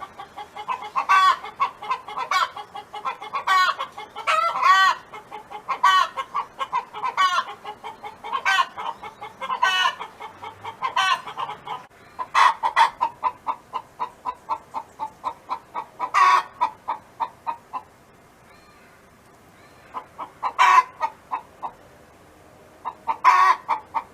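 Hen clucking in fast runs, with a louder squawk roughly every second. It goes quiet for a couple of seconds about three-quarters of the way through, then gives a few more squawks.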